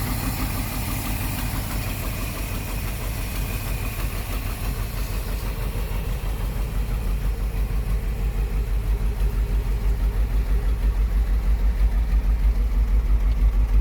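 1964 Ford Thunderbird's V8 idling steadily, an even low exhaust pulse that grows louder through the second half.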